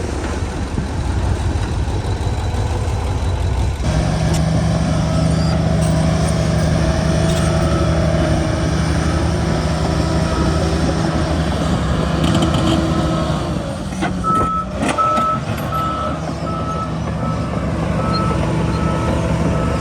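Heavy diesel earthmoving machinery running, its engine note growing stronger about four seconds in. From about two-thirds of the way through, a reversing alarm beeps at an even pace, about one and a half beeps a second, with a few short clanks as it starts.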